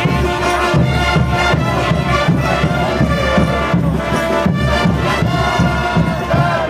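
Brass band playing diablada music: brass instruments carrying the melody over a steady drum beat.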